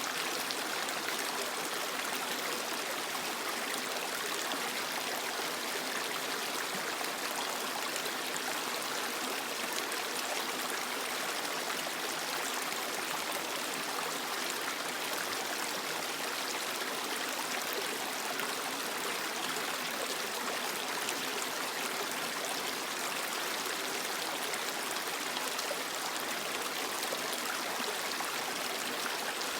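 Creek water flowing and trickling over rocks, a steady hiss-like rush with no breaks.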